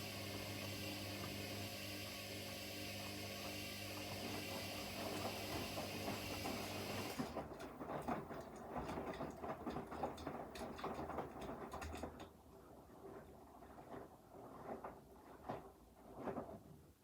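Front-loading washing machines mid-wash: a steady motor or pump hum cuts off suddenly about seven seconds in. After that come irregular swishing strokes of the drum turning the wet load, loud at first and quieter and sparser from about twelve seconds.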